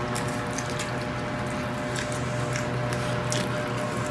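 Wet chewing and lip-smacking of people eating stir-fried pork intestine, with short sharp smacks every half second or so over a steady low hum.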